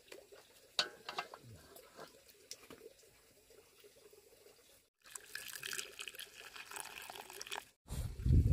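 Water running and splashing, with scattered small clicks and knocks in the first few seconds. Near the end a much louder low rumbling sound starts abruptly.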